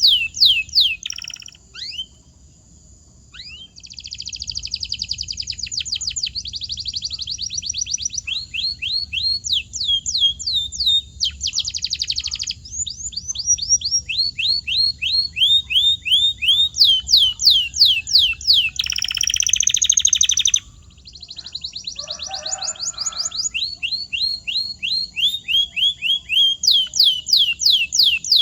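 Canary singing: runs of rapidly repeated falling whistled notes alternating with fast buzzy trills, with a short pause about two seconds in.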